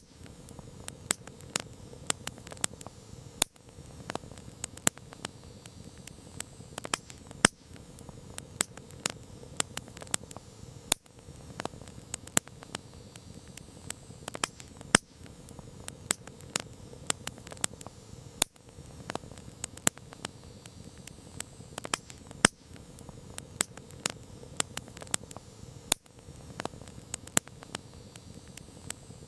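Wood campfire crackling: frequent, irregular sharp pops and snaps over a steady low rush of the flames.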